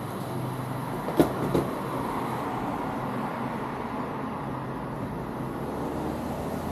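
Car engine idling steadily with a low hum, with two short knocks close together about a second in.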